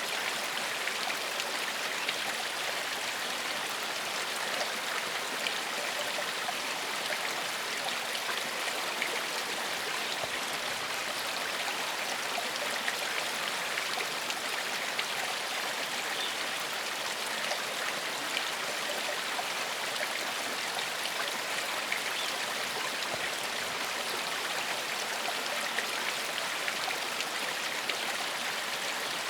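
Forest stream flowing over rocks, a steady rush of water with fine splashing and trickling throughout.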